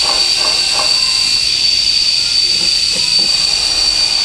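A loud, steady high-pitched hiss with a constant whine on top, unbroken throughout.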